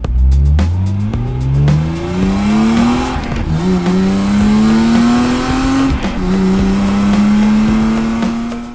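Car engine sound effect accelerating through the gears: the pitch climbs and drops back at each shift about four times, then holds steady for the last two or three seconds.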